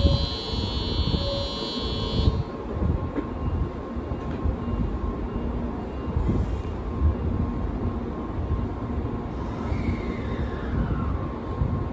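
A platform departure signal rings until about two seconds in and cuts off. Then the N700 series Shinkansen starts moving off slowly, with a steady low rumble.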